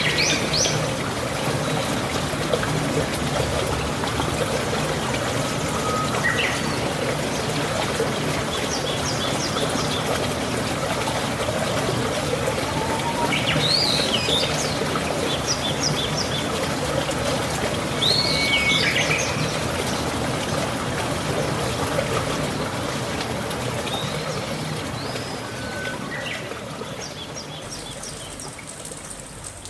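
Steady trickling water noise with a bird chirping several times over it, short calls a few seconds apart. The whole sound fades down over the last few seconds.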